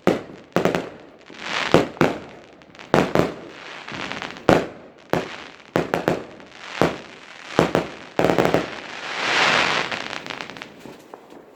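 Fireworks going off: a string of sharp bangs and cracks, about a dozen, irregularly spaced, with a longer hissing burst about nine seconds in.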